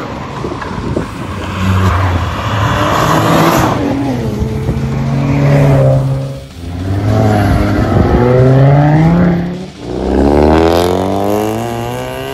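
Modified cars accelerating hard past one after another, each engine revving up in a rising note and then fading as the next one comes through. There are about four passes, with short lulls between them.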